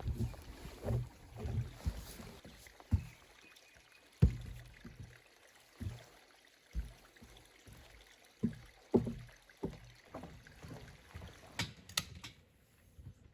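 A string of irregular, short low thumps and knocks, several of them sharp, over a faint low rumble.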